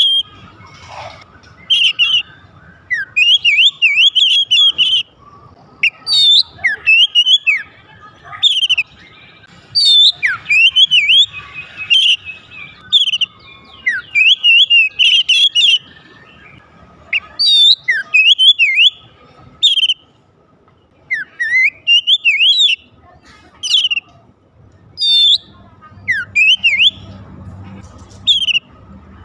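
Oriental magpie-robin (kacer) singing: loud, clear whistled phrases with fast rising and falling notes, in bursts of a second or two with short pauses between.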